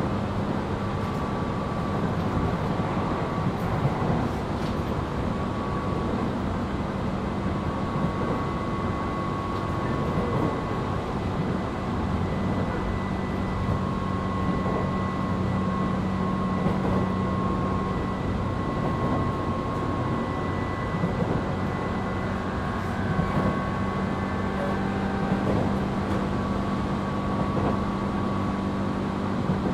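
Tobu 8000 series electric train running between stations, heard from inside the motor car: a steady rumble of wheels on rail with a constant low hum and faint higher tones.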